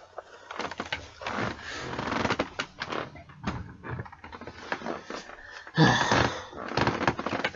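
A boxed vinyl figure being handled: the cardboard box with its plastic window is turned and set down, giving irregular clicks and taps. Two stretches of rustling come, one at about one to two and a half seconds and a shorter one near six seconds.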